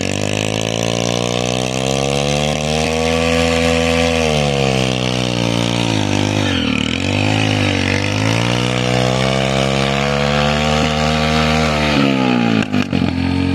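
Small motorcycle engine revved hard and held at high revs while the rear wheel spins in loose sand. The revs climb, sag twice around the middle, and rise again, then break up briefly near the end.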